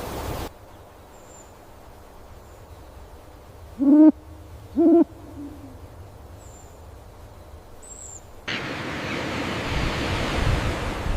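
A bird gives two short, low hoots about a second apart, with a few faint high chirps around them. A steady loud hiss of forest ambience cuts off about half a second in and cuts back in abruptly near the end.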